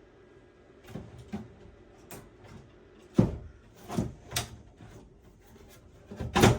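Scattered clunks and clicks of hard computer-case parts being handled and set down, about seven knocks, with the loudest a little after three seconds in and just before the end.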